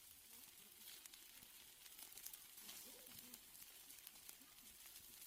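Faint sizzling of steaks on a grill, with scattered small crackles and pops over a soft hiss.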